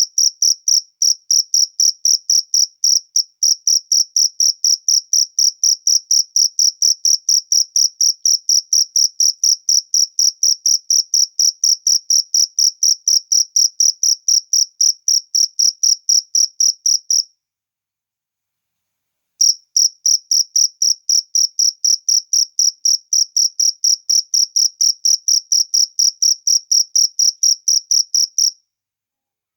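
A cricket chirping in fast, even, high-pitched pulses. It breaks off for about two seconds past the middle, resumes, and stops shortly before the end.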